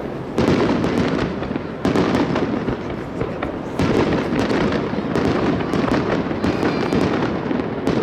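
Aerial fireworks bursting in rapid succession: a continuous barrage of booms and sharp crackles, with louder volleys coming in about half a second, two seconds and four seconds in.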